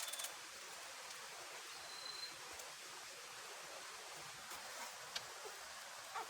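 Steady soft hiss of outdoor forest ambience, with a few faint clicks near the start and again near the end.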